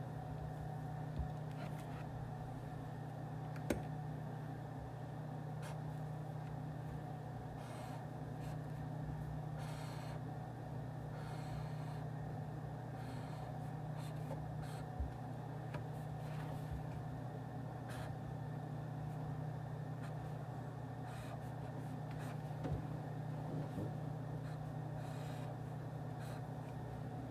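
Office room tone: a steady low hum with a faint even hiss, dotted with scattered small clicks and brief rustles.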